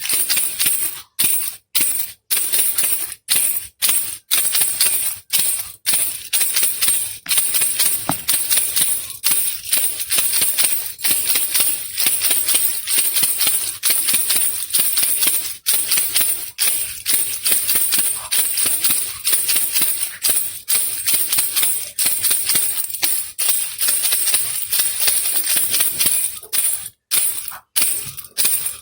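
Baby rattle shaken over and over, a dry rattling of loose pellets. The shakes come about once a second with short silences between them at first, run together into near-continuous rattling through most of the stretch, and separate again near the end.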